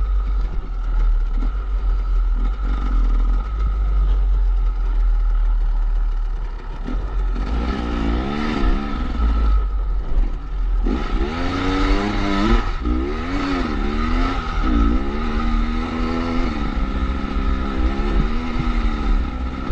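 KTM 250 EXC two-stroke enduro engine being ridden and revved, its pitch rising and falling over and over, more quickly and loudly in the second half. A steady low rumble runs underneath.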